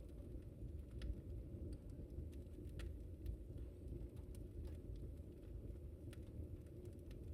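Wood fire burning in a fireplace: a low steady rumble of flames with scattered sharp crackles and pops, roughly one a second.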